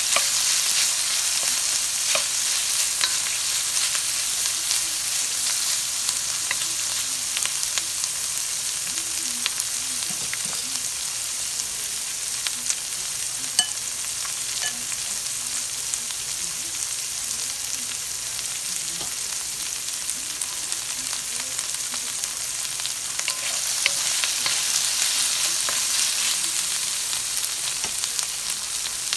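Cut asparagus sizzling in hot oil in a wok: a steady frying hiss with scattered small pops and ticks, swelling a little near the start and again near the end.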